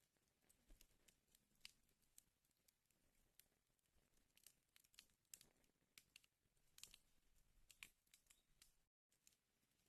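Wood fire in a fireplace crackling faintly, with irregular sharp snaps and pops over a soft hiss. The sound cuts out completely for a moment near the end.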